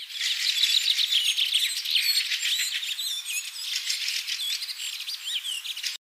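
Small birds chirping and twittering, many quick high whistled notes and short glides overlapping one another, cutting off suddenly near the end.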